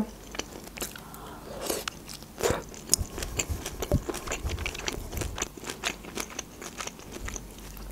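A person chewing a mouthful of food close to the microphone, with a stream of small crisp crunching clicks.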